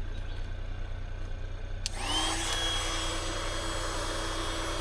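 Electric air pump for an inflatable mattress switched on with a click about two seconds in: its motor spins up with a quickly rising whine, then runs steadily with a rush of air, inflating the mattress. A steady low hum runs underneath.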